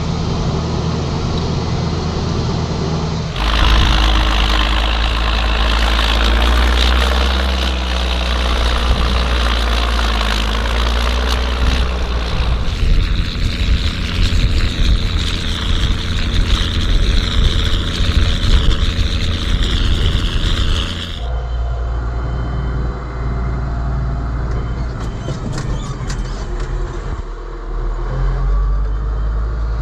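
Ford TW tractor's diesel engine running steadily while ploughing. It turns louder and hissier about three seconds in and drops back to a plainer hum about twenty seconds later.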